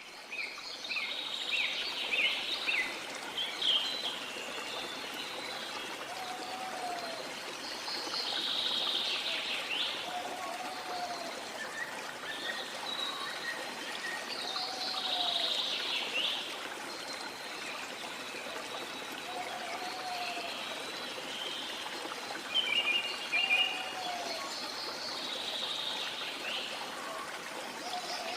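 Rain forest ambience: a river flowing with a steady rushing hiss while birds call over it. One short, low, arched call repeats every few seconds, and higher chirps and trills come and go.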